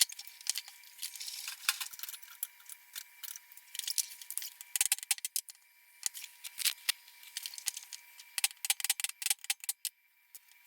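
Irregular, rapid light metallic clicks and rattles of metal parts and tools being handled as an old monkey wrench is taken apart, over a faint steady high tone.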